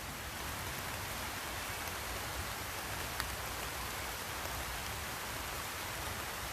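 Steady rain from a sun shower falling outdoors, an even hiss with a few single drops clicking a little louder, one about three seconds in.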